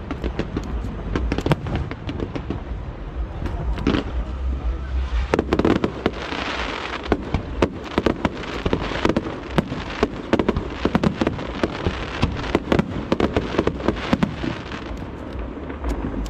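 Aerial fireworks going off in rapid, irregular succession: many sharp bangs over a steady low rumble, with a stretch of crackling hiss from about five seconds in.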